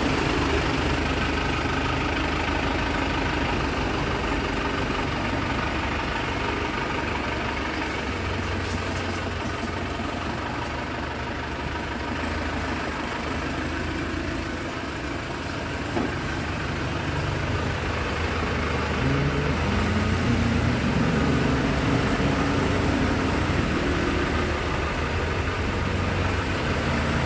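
Isuzu Panther's diesel engine idling steadily, its note getting a little higher and louder about twenty seconds in. A single sharp click sounds a little past the middle.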